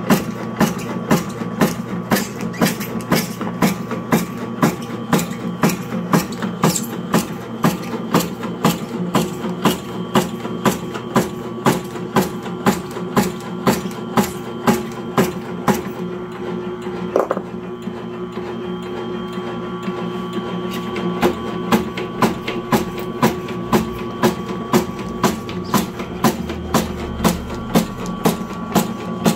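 Motor-driven herb slicing machine running with a steady hum, its blade chopping at an even rate of about two cuts a second. The cutting strokes pause for a few seconds past the middle while the motor keeps running, then resume.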